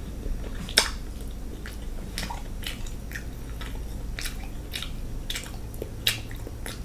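Close-miked eating sounds of a person eating king crab in sauce: wet chewing and lip smacking in a string of short, irregular clicks, the sharpest about a second in and again near the end.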